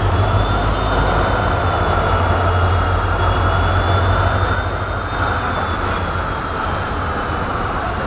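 A diesel-hauled freight train passing close by, with a steady rumbling rush from the rolling wagons. The locomotive's low engine drone fades about four and a half seconds in as the covered goods wagons follow it past. A thin, high squeal from the wheels runs through it.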